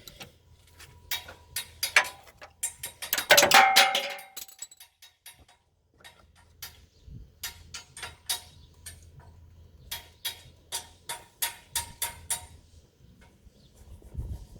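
Sharp clicks and knocks of hand tools and metal or plastic parts being worked while panels are fitted to a truck. There is a denser clatter about three to four seconds in, and a run of clicks at about four a second near the end.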